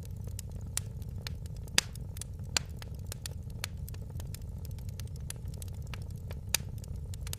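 Fireplace fire crackling: a steady low rumble of the flames with frequent small ticks and a few sharper pops, the loudest about two seconds in.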